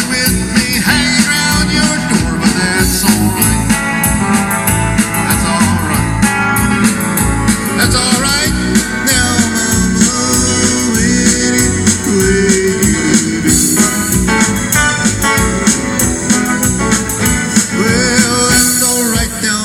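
Live band playing an upbeat blues rock-and-roll number: plucked guitar over bass and drums with a steady beat.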